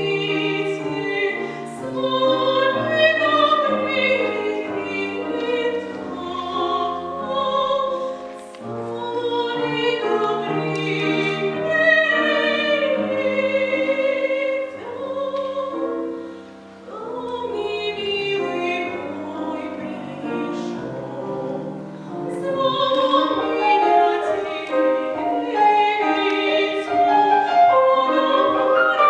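A child singing a classical art song in academic, operatic style, with instrumental accompaniment, the melody moving in long held notes.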